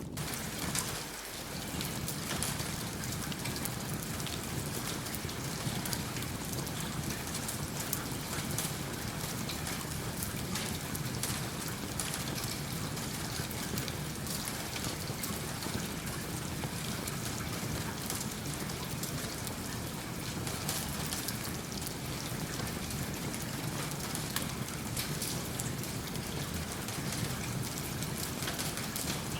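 Steady rain falling, with many small sharp crackles through it from a wood fire in a fireplace.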